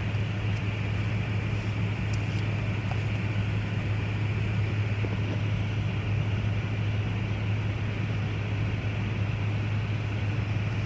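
A car idling: a steady low hum with an even band of noise, unchanging throughout.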